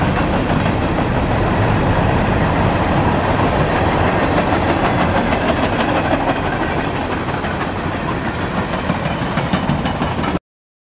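Freight train cars rolling past on the rails, with steady rumble and wheel clicks over the rail joints. The sound cuts off suddenly near the end.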